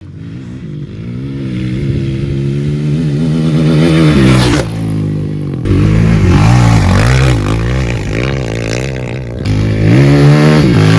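Kawasaki KLX450R dirt bike's single-cylinder four-stroke engine revving, its pitch rising and falling again and again. The sound fades in at the start and changes abruptly a few times, as if cut together from separate clips.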